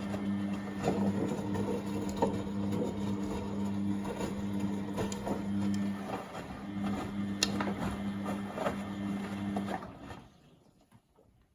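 Beko WMB71642W washing machine drum turning during the main wash, with a steady motor hum and the load tumbling in soft irregular knocks. About ten seconds in the motor stops and the machine goes almost quiet, the pause before the drum reverses.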